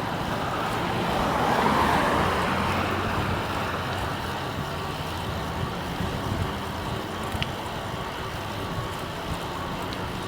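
Road traffic passing on a busy street, swelling as a vehicle goes by about two seconds in, over steady wind noise.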